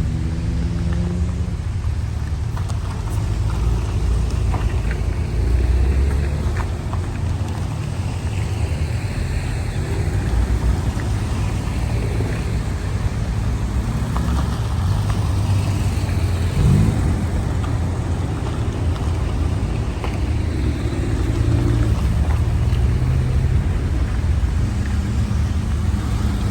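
Porsche 911 Carrera S (997) flat-six engine running on the move over a steady, heavy low road rumble, its pitch rising and dropping a few times with throttle and gear changes.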